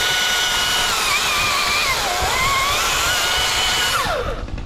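Battery-powered chainsaw running at full speed with a high whine. Its pitch sags as the chain bites into a small stub about a second in, recovers, and then the saw winds down near the end.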